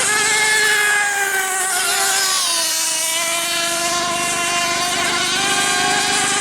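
Model racing boat engine running on the water, a high-pitched buzz. Its pitch dips about two and a half seconds in, then climbs back.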